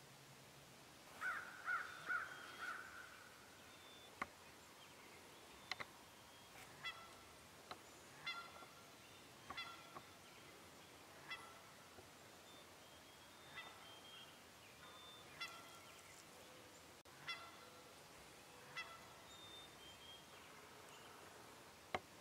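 Faint calls of a large fowl-like bird: a quick cluster of notes about a second in, then single short calls every second or two, with a few sharp clicks among them.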